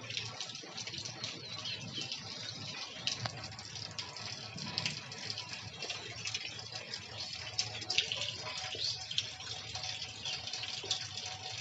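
Steady rain falling, with many small drops spattering and water running.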